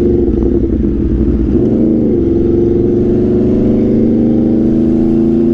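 Aprilia RSV4's V4 engine running at highway speed through an SC-Project CRT exhaust. The note wavers and dips in pitch, comes back up about two seconds in, then holds steady.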